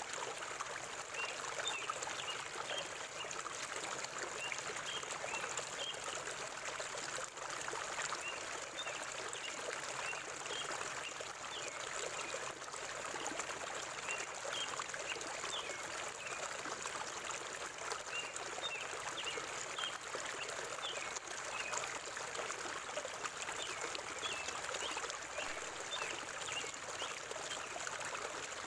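Forest stream flowing steadily over rocks, with small birds giving short high chirps in scattered runs, and a thin steady high tone above.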